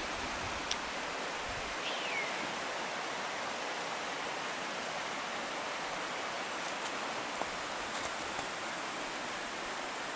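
Steady, even rushing hiss, like flowing water or wind, with one short falling chirp about two seconds in and a few faint clicks.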